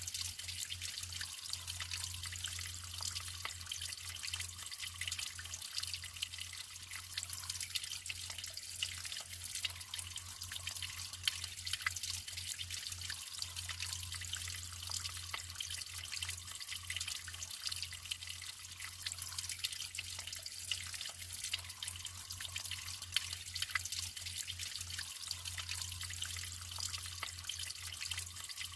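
Natural running water trickling and dripping: a steady hiss with many small drips and splashes, over a low steady hum.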